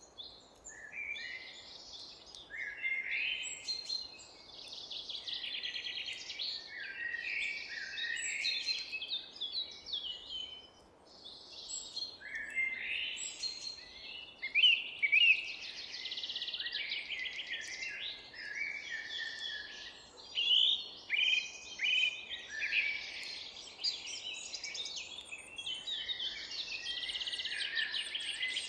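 Several small birds singing at once in a forest chorus: overlapping chirps, trills and quick gliding notes, nearly without pause, over a faint background hiss.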